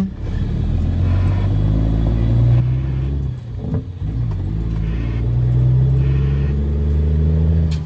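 Caterpillar C13 diesel of a Kenworth W900B dump truck pulling under load, its revs climbing, then dropping briefly about three seconds in as it shifts up, then climbing again.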